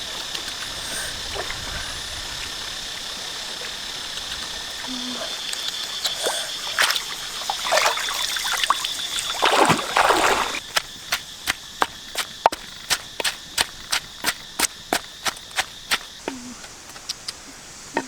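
Water splashing and trickling for about ten seconds over a steady high-pitched background hum. Then a knife starts chopping on a cutting board in even strokes, about two a second.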